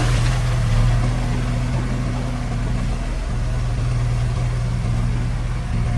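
Diesel engine of a construction machine running at a steady, even speed with a constant low hum.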